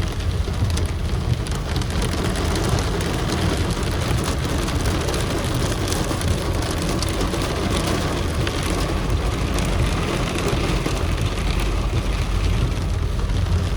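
Heavy rain falling steadily, a dense even hiss with many sharp individual hits of drops.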